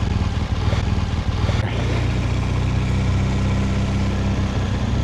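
BMW R1200GS boxer-twin engine idling steadily.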